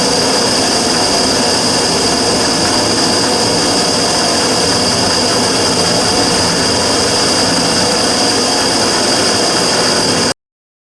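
Immersion tube burner firing, a loud steady rushing noise with a strong high-pitched hiss over it; this is the abnormal noise (異音) the burner is being recorded for. The sound cuts off suddenly near the end.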